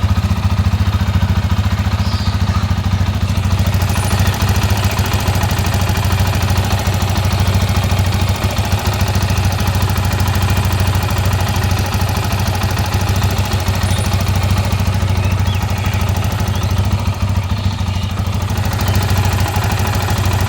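TVS Apache RTR 180 2V motorcycle's single-cylinder engine idling steadily, making the engine noise the owner treats as a problem that has appeared within a year of use.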